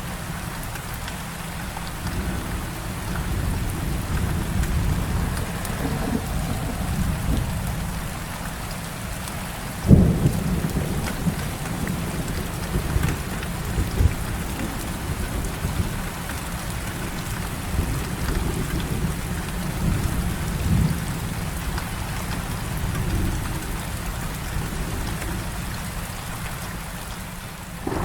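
Heavy rain falling steadily with rolling thunder rumbling beneath it; about ten seconds in a sharp thunderclap breaks out and rumbles on.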